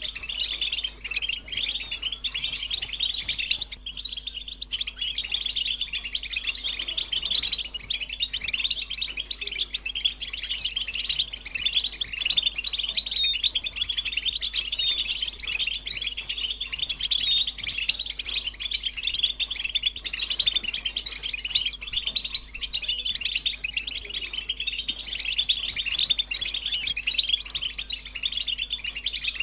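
European goldfinches chattering and twittering together in a dense, unbroken stream of rapid high chirps and trills, with a short lull about four seconds in.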